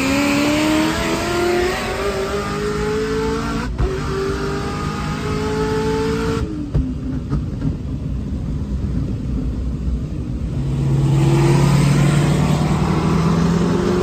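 Performance car engines at full throttle in a roll race, their pitch climbing steadily with a brief break for a gear shift about four seconds in. About six seconds in the sound cuts abruptly to a duller hum inside a car's cabin. Near the end a louder engine returns, its pitch rising slowly.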